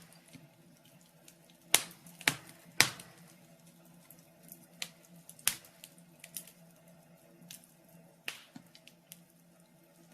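Wood fire crackling in a fireplace: irregular sharp pops and snaps, a few loud ones in the first three seconds, then sparser smaller ones, over a faint steady hum.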